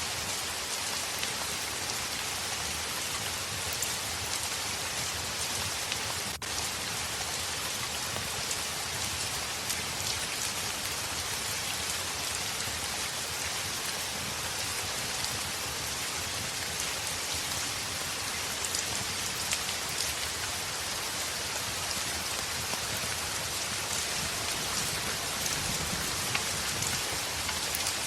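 Heavy rain falling steadily on a window, with scattered small ticks of drops. About six seconds in there is a split-second dropout in the sound.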